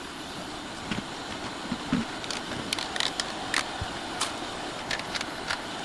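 Steady vehicle engine and road noise, with scattered light clicks and taps.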